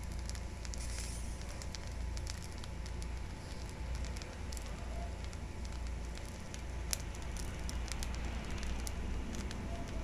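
Butter bihon rice noodles with vegetables sizzling and crackling in a large metal pan, a steady hiss dotted with fine irregular pops. A steady low rumble runs underneath.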